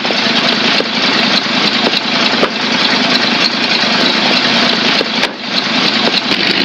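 Car engine running steadily, with a few light knocks over it.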